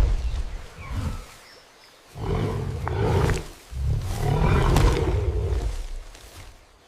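A large wild animal roaring: three deep calls, the last the longest at about two seconds, with short pauses between them.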